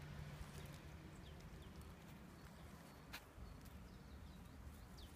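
Near silence, with faint, short, high chirps of small birds now and then and a single sharp click about three seconds in.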